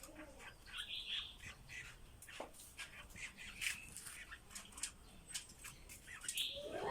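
Small songbirds chirping in many short, sharp notes, with a few harsher calls among them.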